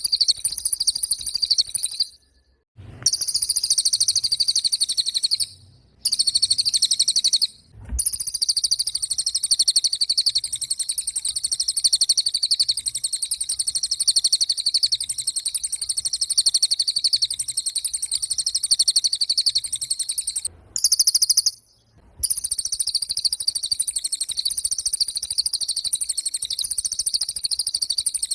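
A cililin songbird singing a very high, fast, buzzy trill almost without a break, pausing only briefly a few times.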